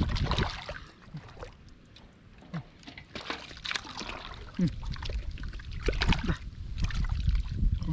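Shallow, muddy field water sloshing and splashing in short irregular bursts as someone wades and grabs at fish by hand. There is a low wind rumble on the microphone.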